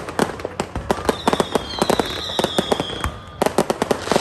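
A fireworks display: rapid volleys of sharp bangs and crackling shells, with a high whistle gliding slightly down for nearly two seconds from about a second in. After a short lull near three seconds, another dense cluster of bangs.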